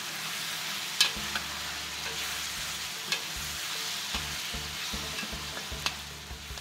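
Liver frying in oil in a wok over low heat: a steady sizzle, with a few sharp clicks of a metal spatula against the wok, the loudest about a second in.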